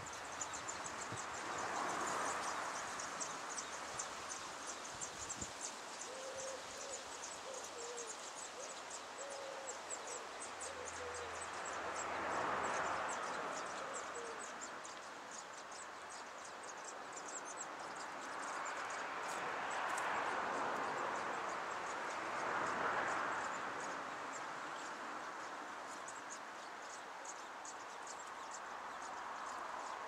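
A bird's low call of several short notes a few seconds in, with one more note near the middle. Underneath, a rushing sound swells and fades several times, and a fast, high ticking runs throughout.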